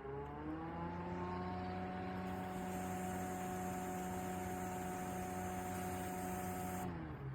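Small electric fan motor of a portable evaporative air cooler spinning up with a rising whine, running at a steady pitch, then winding down near the end.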